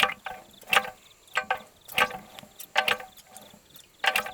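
Irregular sharp metallic clinks and knocks, each with a short ring, about nine of them: tools and metal engine parts being handled and struck during a teardown.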